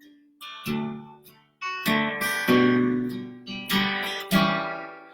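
Acoustic guitar strumming chords in an instrumental break between verses. There are about five strokes, each ringing out and fading before the next.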